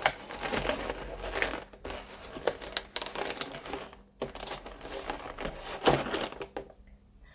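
Packaging crinkling and rustling as it is handled and pulled open, with a few sharp clicks. It dies away about a second before the end.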